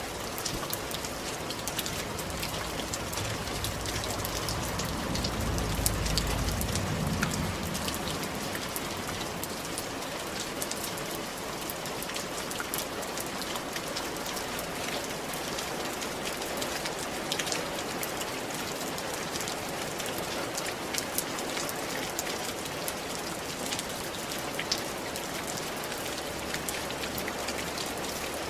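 Steady rain falling on a clay tile roof, a dense patter of drops hitting the tiles. A low rumble rises and fades between about four and seven seconds in.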